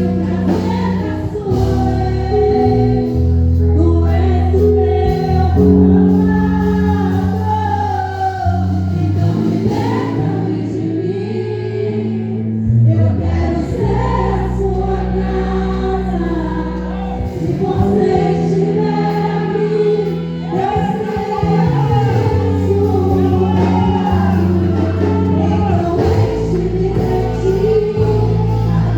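Christian worship song: several voices singing together over sustained low notes that change every few seconds.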